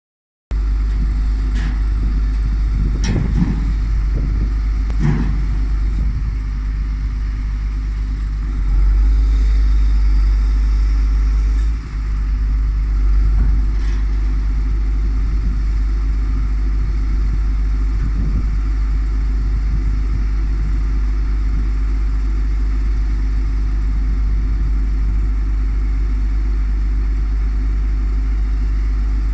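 MAN truck's diesel engine running steadily to power the Palfinger loader crane's hydraulics, with a louder spell from about nine to twelve seconds in. A few sharp knocks come in the first five seconds.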